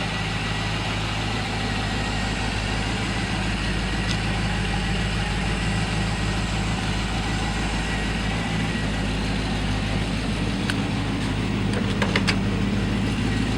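1970 Ford Thunderbird's rebuilt 429 V8 idling steadily, with a few light clicks near the end.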